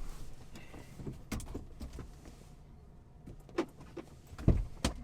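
Scattered sharp clicks and knocks inside a car, with two heavier thumps near the end.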